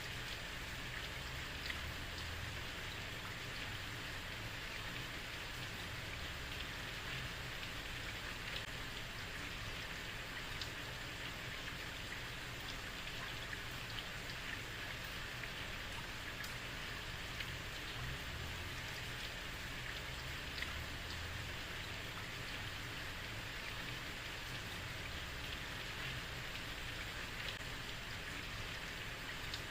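Heavy rain falling steadily on a street, an even hiss with scattered individual drop splashes.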